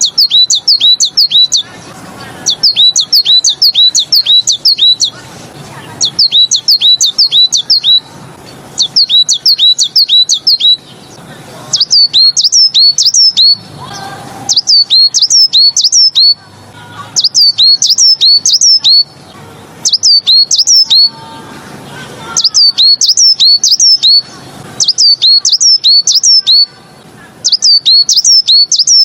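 A tit kept as a songbird (a 'beizi' of the Tieling song style) singing in repeated bouts. Each bout is a quick run of about eight high notes, each note sliding down in pitch. Bouts come every few seconds with short pauses between them. This is the tutor song used to teach caged birds this song style.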